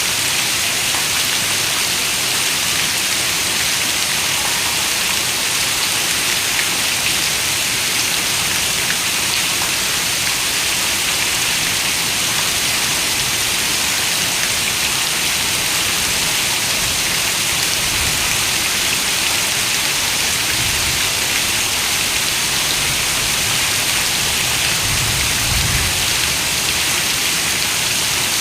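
Heavy rain falling on a window: a steady, dense hiss of drops, with a few brief low rumbles in the second half.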